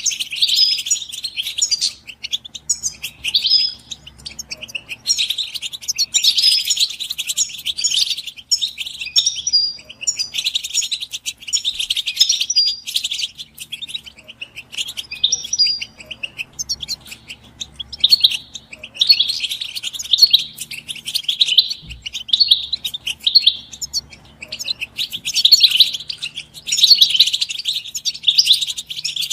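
European goldfinches twittering and singing together: a fast, continuous chatter of high notes that swells in waves every second or two. These are the excited group calls that breeders use as mating and readiness calls.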